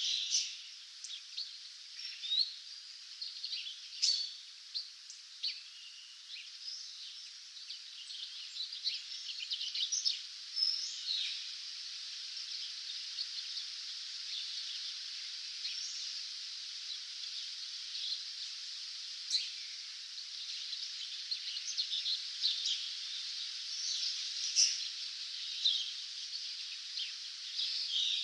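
Dawn chorus of many small songbirds, a dense run of chirps and short trills over a steady high hiss.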